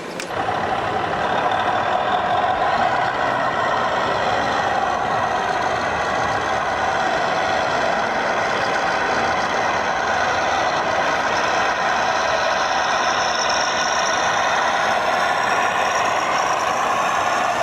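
Radio-controlled scale model truck or construction machine running: a steady mechanical whirr with several whining tones that waver slightly in pitch, and a fainter high whine rising in about two-thirds of the way through.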